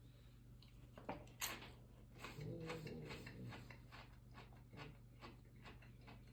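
Someone tasting a mouthful of cowboy caviar, a bean, corn and diced vegetable salad: a couple of sharp clicks about a second in, then faint crunchy chewing with a short low hum a little after two seconds.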